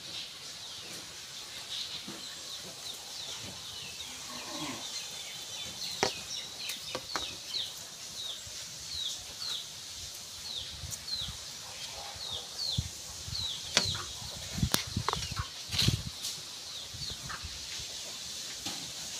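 A small bird or chick chirping over and over, short high notes that fall in pitch, about two a second, over a faint rustle, with a few sharp knocks now and then.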